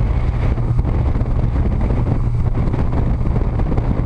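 Wind buffeting the microphone on a moving motorboat, over a steady low engine drone.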